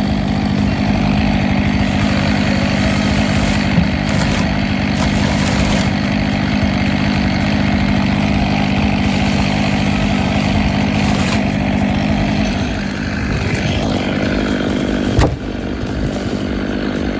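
Machine engine running steadily at a constant speed, with one sharp knock about fifteen seconds in.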